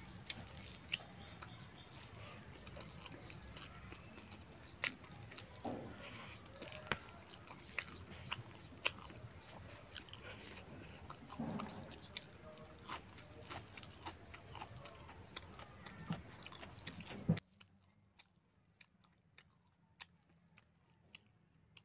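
Close-miked eating sounds of a person chewing rice and pork with an open mouth: irregular wet clicks and smacks over a faint hiss. The hiss cuts out about four fifths of the way through, leaving only scattered clicks.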